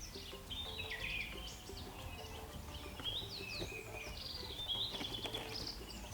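Several birds chirping and calling, many short quick notes overlapping one another, over a steady low background rumble.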